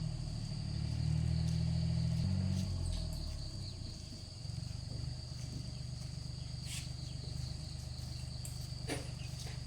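Small Kubota engine running, louder and higher for the first two or three seconds, then settling to a steady, even idle. Crickets keep up a steady high chirring over it.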